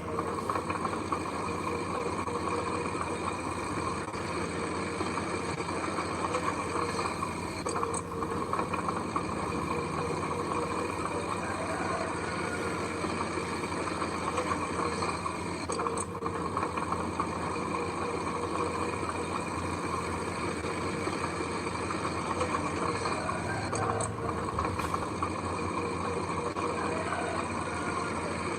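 Heavy diesel engine of earth-moving machinery running steadily at an even speed, with a faint tick about every eight seconds.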